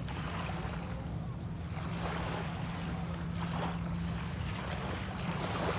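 Small bay waves washing onto the shore in irregular washes every second or two, over a steady low rumble of wind on the microphone.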